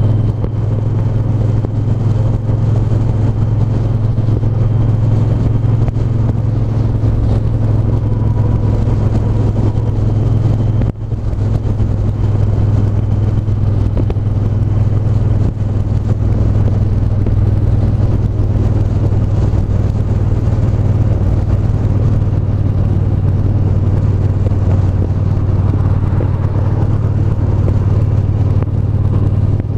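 Triumph 1200 cc parallel-twin motorcycle engine running steadily, with a short dip in level about eleven seconds in.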